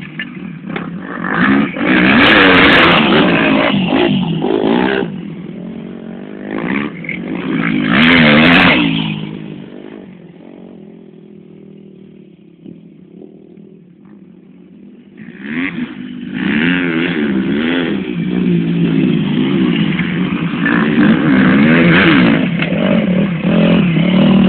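Motocross motorcycle engines revving up and down as bikes go by, with loud passes near the start and about eight seconds in, a quieter stretch in the middle, then running loud and revving again from about fifteen seconds in.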